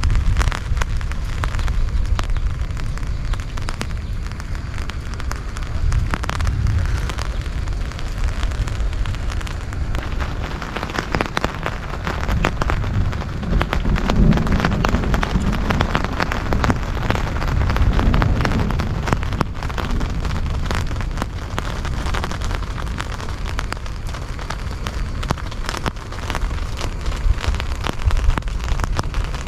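Heavy rain falling steadily, a dense rush of drop hits over a low rumble, swelling a little heavier about midway.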